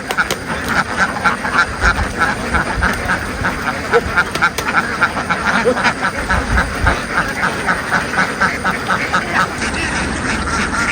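A large flock of domestic ducks quacking without pause, many short quacks a second overlapping into a steady chorus.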